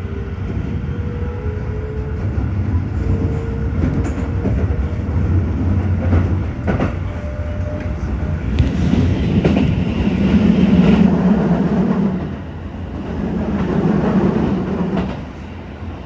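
Shin-Keisei Line electric commuter train pulling out of a station, heard from inside the carriage. There is a steady low running rumble with a faint rising traction-motor whine as it gathers speed. A few wheel clacks over rail joints come in the middle, and the running noise grows louder and rougher about halfway through.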